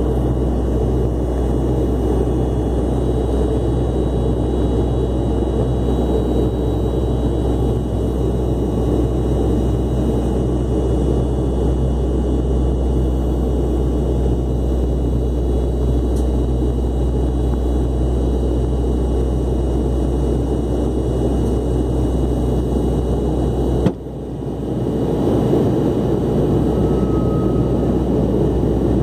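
Airliner cabin noise in flight: a steady drone of engines and airflow with a low hum. About 24 s in there is a click, the lowest hum drops away and the noise dips briefly before building back up.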